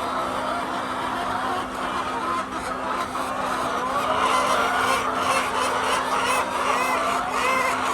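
A large flock of hens calling all at once, many short overlapping squawks and clucks that grow denser about halfway through, over a steady low hum.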